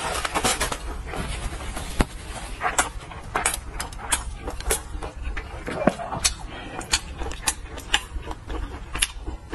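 Close-miked mouth sounds of a person chewing soft food: wet smacks and clicks at irregular intervals, over a low steady hum.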